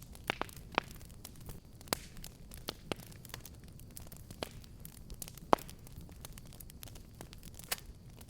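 Fireplace fire crackling: irregular sharp pops and snaps over a low steady rumble, with one louder pop about five and a half seconds in.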